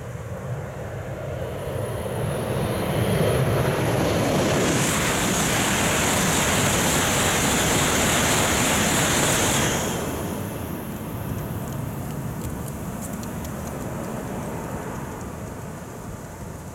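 Tohoku Shinkansen high-speed train passing by. A rushing noise builds over a few seconds, holds loud for about five seconds, then drops away abruptly as the end of the train goes past, leaving a fading rumble.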